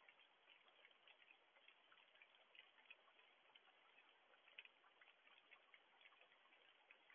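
Faint light rain heard through a security camera's microphone: scattered raindrops clicking irregularly, several a second, over a soft steady hiss.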